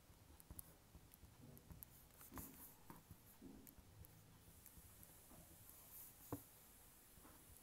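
Faint pen-writing sounds: light scratchy strokes and small taps, with one sharper tap a little over six seconds in.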